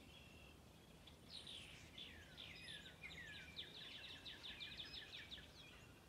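Songbirds singing faintly: a run of quick, falling chirps, several a second, starting about a second in and fading near the end.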